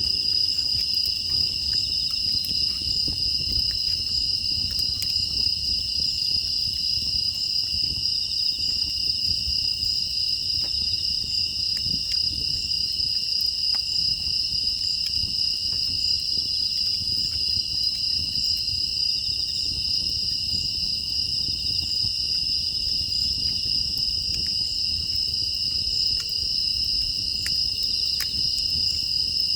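Steady chorus of grass insects such as crickets, two unbroken high trills, over a low rumble with scattered faint crackles.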